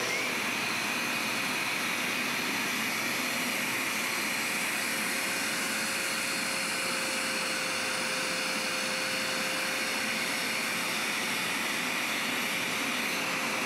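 Hoover SmartWash+ carpet cleaner running, its motor giving a steady whine over the rush of suction as it extracts liquid from a rug.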